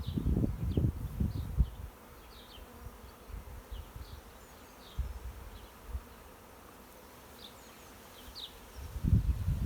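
A swarm of honeybees buzzing in the air around a hive as they settle. Low buffeting on the microphone comes in the first two seconds and again near the end.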